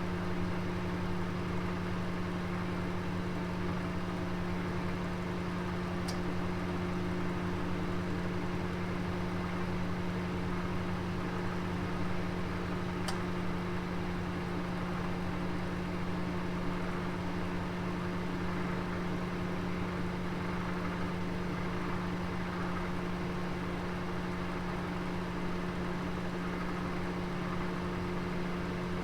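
Oven running with a roast inside: a steady hum over a faint hiss, with two faint ticks, about six and thirteen seconds in.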